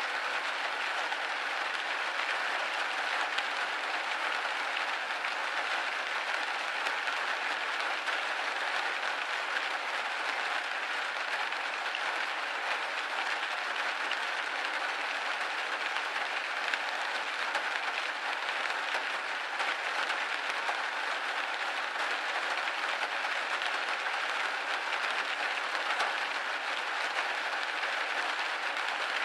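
Steady rain pattering on a window pane, a dense even hiss of drops with no gusts or breaks.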